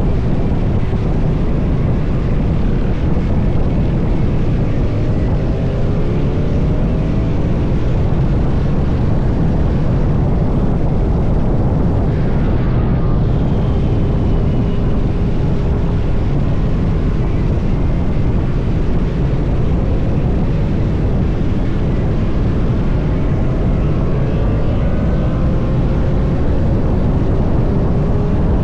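Motorcycle under way: loud, steady rush of wind over the microphone, with the engine's note faintly audible beneath it, climbing in pitch several times as the bike accelerates.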